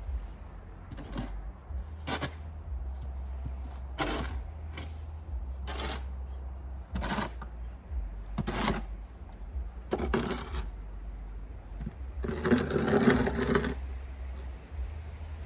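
Snow shovel scraping over pavement in repeated strokes, about one every one to two seconds, with a longer, louder scrape near the end.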